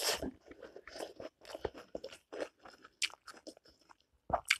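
A person chewing a mouthful of rice and greens, with many short crunchy clicks, and a louder crunch right at the start.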